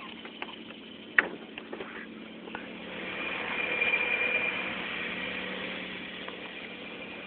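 Volkswagen Golf Mk2 GTI's four-cylinder engine idling steadily, growing louder for a couple of seconds midway. A single sharp click comes about a second in.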